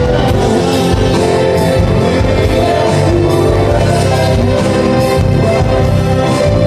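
A live rock band playing, with electric guitar, bass and drums and a steady beat.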